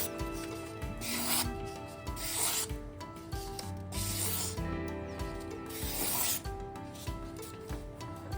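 A VG10 steel Deba knife being sharpened on a whetstone: several separate hissing strokes of the blade across the wet stone, one every one to two seconds, over background music.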